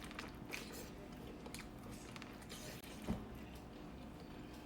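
Faint eating sounds: soft chewing and small wet clicks of a mouth working on food, with one slightly louder smack about three seconds in.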